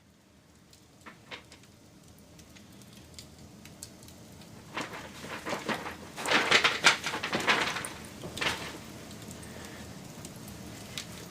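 Wood fire crackling and popping over a steady hiss, fading in, with a cluster of louder, denser crackling from about five to eight and a half seconds in.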